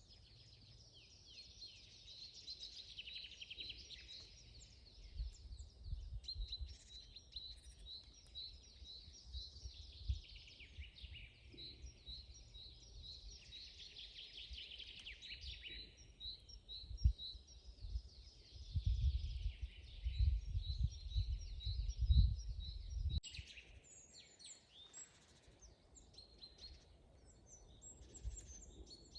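Songbirds singing in a forest chorus: rapid, repeated high chirps and trills that carry on throughout. Uneven bursts of low rumble come and go and are loudest about two-thirds of the way in, then stop abruptly, after which the birdsong turns briefly denser and higher.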